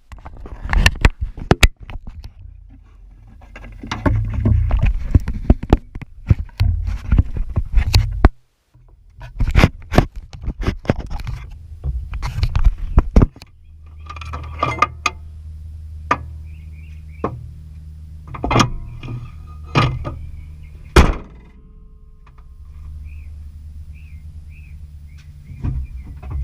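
A 2006 Toyota's engine running at a steady low idle through the second half, with irregular sharp knocks and thunks, the loudest sounds, and faint short high chirps near the end; this is the unexplained engine noise whose source is being hunted.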